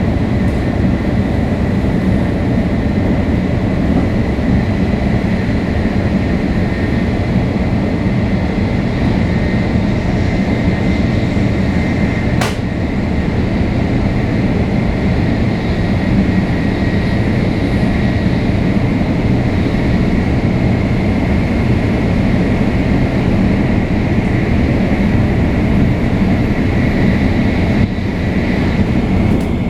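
Shinkansen 500 series train with Toshiba GTO-VVVF traction equipment, running at a steady speed: a steady rumble of wheels and running noise with a faint steady high tone. A single sharp click sounds about twelve seconds in.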